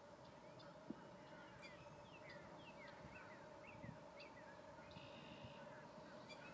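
Faint small birds chirping, many short falling notes over a faint steady hum, with a soft low thump about a second in and another near four seconds.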